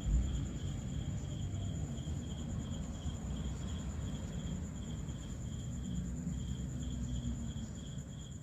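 Night insects calling, crickets among them: a steady high-pitched trill with an evenly pulsed lower chirping, over a low rumble.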